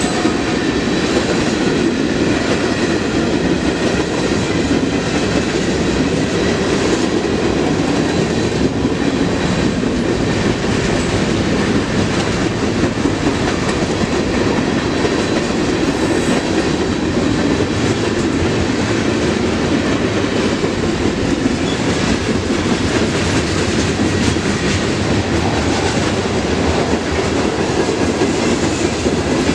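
Train cars rolling past, a steady loud rumble with steel wheels clicking over the rail joints.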